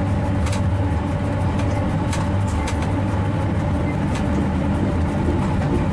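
Train running along the track, heard from the driver's cab: a steady low rumble with a faint even hum over it and a few light clicks.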